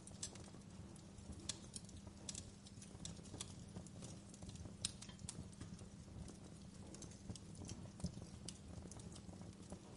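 Wood fire crackling: irregular sharp pops and snaps, a few a second, over a low steady rumble.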